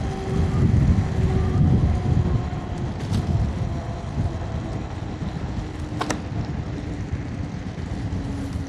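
Riding an electric scooter: wind buffets the camera microphone in a loud low rumble, over a faint motor whine that slowly drops in pitch as the scooter slows. A single sharp click about six seconds in.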